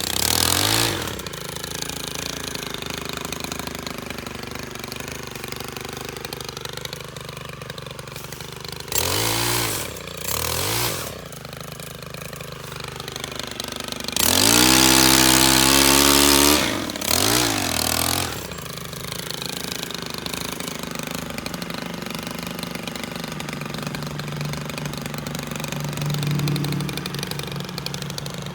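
STIHL KM 131R Kombi power head's small 4-MIX engine idling, revved up several times: a fading rev at the start, two short blips about ten seconds in, then a longer high rev of about three seconds followed by one more short blip, before settling back to idle.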